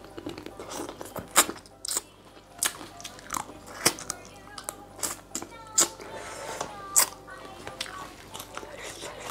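Close-miked chewing of a mouthful of green papaya salad (som tam), with irregular sharp crunches.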